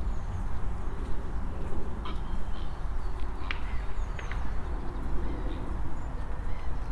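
Footsteps of a walker on an outdoor path over a steady low rumble of wind on the microphone, with small birds chirping and calling faintly, a few calls about halfway through.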